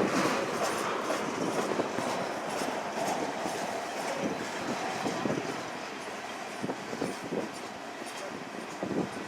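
Train rolling past on the rails, its wheels clicking over rail joints, the sound slowly fading as it moves away, with wind buffeting the microphone.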